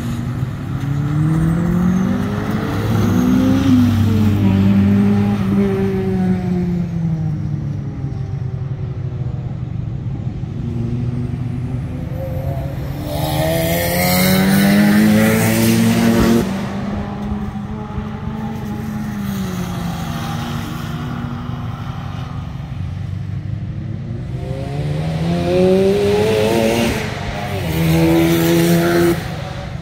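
Car engines running hard on a circuit, the pitch climbing as they accelerate and falling as they lift off. There are three loud passes: one in the first few seconds, the loudest around the middle, which drops away suddenly, and another near the end.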